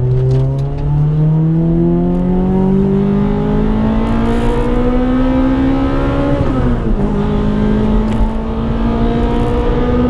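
2006 Corolla XRS's 2ZZ-GE four-cylinder accelerating hard through aftermarket headers and a Magnaflow muffler. The exhaust note rises steadily for about six seconds, drops sharply at an upshift, then climbs again and begins to ease off at the end.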